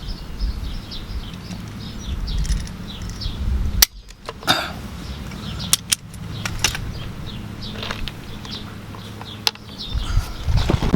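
A handful of sharp metallic clicks from a hand wire crimper being worked on spade connectors, over a steady low hum.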